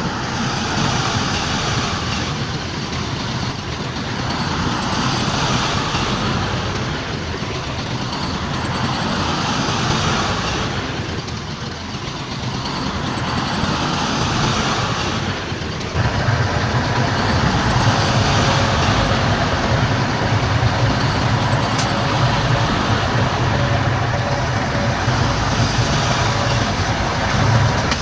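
Diesel engines of heavy earthmoving machinery running, the noise swelling and easing for a while, then switching suddenly about halfway through to a louder, steady low engine rumble.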